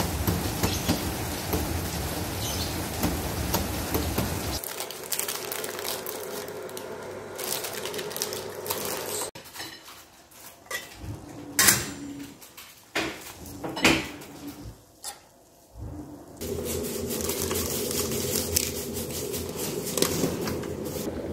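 Rain falling steadily on wet pavement for the first several seconds. Then clinks and knocks of a stainless steel pot's glass lid being handled on a gas stove, followed by a steady hiss.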